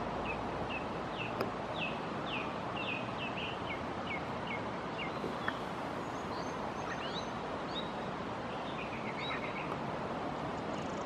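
A small bird calling in strings of short, quick, falling chirps, several a second through the first few seconds and again in the second half, over a steady rushing noise of flowing river water. Two faint clicks stand out briefly.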